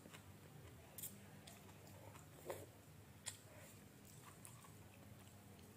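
Faint chewing of a mouthful of instant noodles, with a few soft clicks about a second apart.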